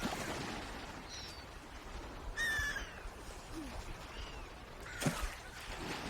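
Swans calling: several short, arching calls, the loudest about two and a half seconds in, over a steady background hiss.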